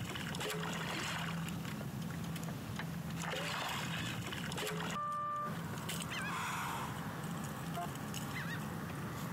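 Waterbirds calling a few times with short, wavering cries over a steady low hum and hiss.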